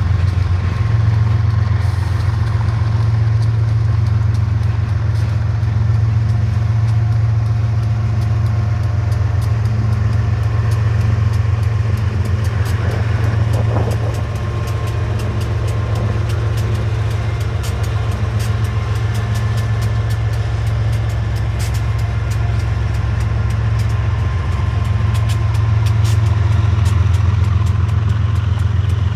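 Diesel locomotive engine running steadily with a deep hum, with scattered light ticks over it.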